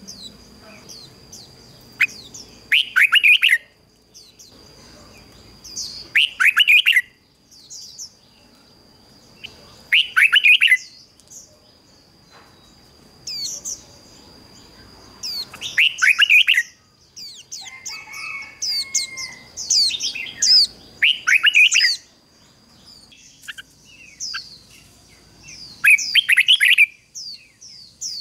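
Red-whiskered bulbul singing short, loud, bubbling phrases, repeated every three to four seconds, over a steady high-pitched whine.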